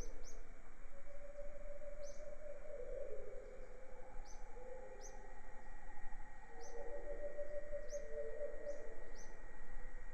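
Birds calling in a jungle soundscape: short, high, downward-sweeping chirps repeat about once a second over lower warbling sounds and a steady hiss.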